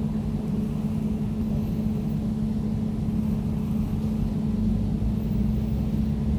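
Air conditioner running steadily: an even, low hum with a rumble beneath it.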